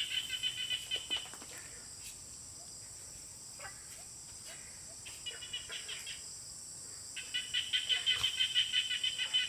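Countryside ambience: rapid pulsing animal calls, likely a bird, come in three bouts, the last and longest near the end. A steady high-pitched insect drone runs underneath.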